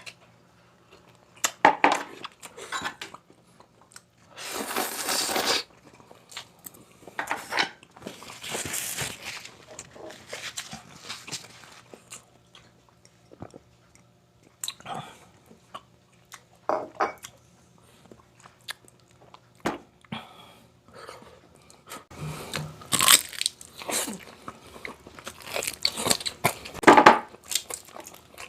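Close-up crunching and chewing as a person bites into crispy deep-fried pork knuckle (crispy pata), in irregular bursts with a couple of longer crunches.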